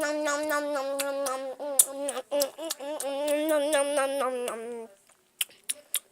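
A high voice humming a tune in long, wavering held notes, stopping about five seconds in, followed by a few light clicks.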